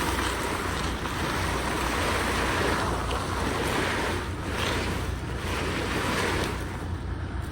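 Steady wind rushing over the microphone, swelling a few times, over a constant low rumble.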